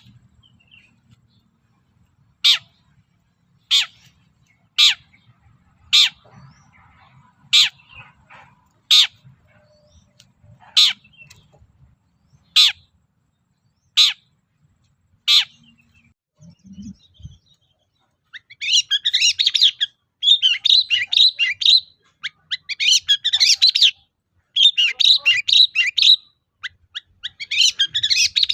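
Long-tailed shrike (cendet) giving single short, sharp calls about every second and a half, then about two-thirds of the way through breaking into fast, chattering song in bursts of a second or two.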